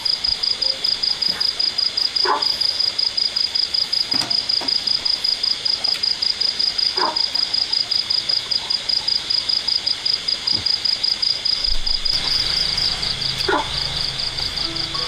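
Insects chirping in a loud, high, steady pulsing trill of about five pulses a second, with a few brief short calls or knocks over it.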